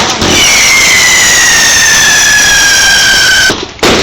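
A whistling firework: one loud, long whistle that falls slowly in pitch for about three seconds over a dense hiss, then cuts off.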